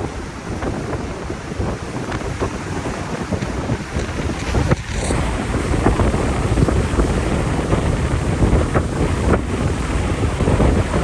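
Hurricane wind buffeting the microphone in a heavy, low rumble of gusts, growing louder about five seconds in.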